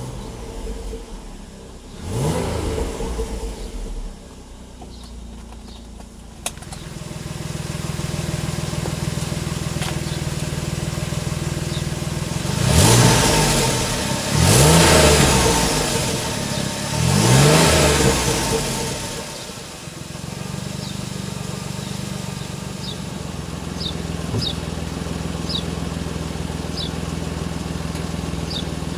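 Chrysler 300M Special's 3.5-litre V6 idling and being revved in three quick blips around the middle, each rising and falling in pitch, with a shorter rev early on, then settling back to a steady idle. The exhaust sound carries a leak on the passenger side, which the owner calls very noisy.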